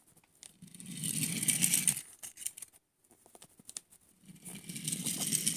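Rustling and clicking of a small toy and its packaging being handled, in two bursts of a second or two each.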